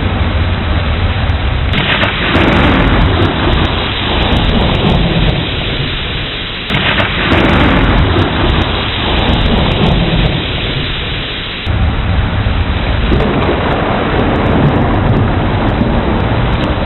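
Thunderstorm: steady heavy rain with rolling thunder rumbling underneath. The sound swells suddenly about two seconds in and again about seven seconds in.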